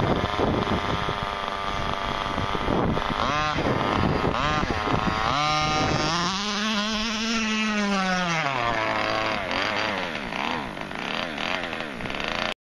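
HPI Baja 5B 1/5-scale RC buggy's two-stroke gas engine, fitted with a cone intake and dual exhaust, revving up and down repeatedly, with one long rise and fall in pitch from about six to ten seconds in. The sound cuts off suddenly near the end.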